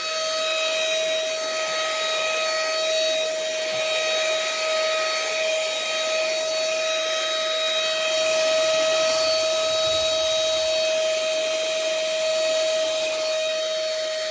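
Compact cordless handheld vacuum running with a steady high motor whine and a rush of air. Near the end it is switched off, and the whine falls in pitch as the motor spins down.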